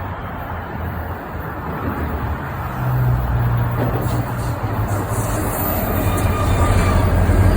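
Diesel locomotives of a freight train approaching, a steady low engine drone growing louder. Faint high squeals come in near the end.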